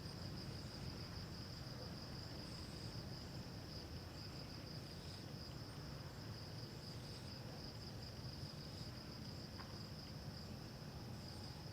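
Crickets trilling in a steady, high-pitched chorus over a low, steady hum.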